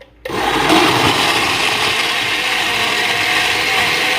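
Electric blender switched on just after the start, then running steadily as it blends mango and avocado into a shake.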